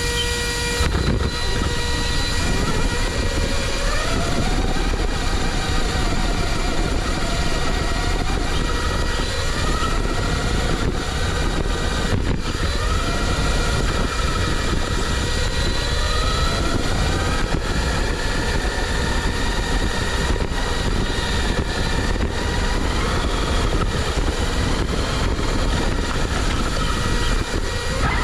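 RC car's Apex 4076 brushless electric motor whining as it drives, its pitch rising and falling again and again with the throttle, over a steady rush of noise.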